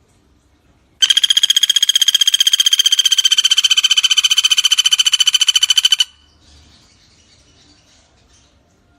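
Common flameback woodpecker (pelatuk bawang) giving a long, rapid, even trill of about ten notes a second, pitched high. It starts about a second in and stops abruptly after about five seconds.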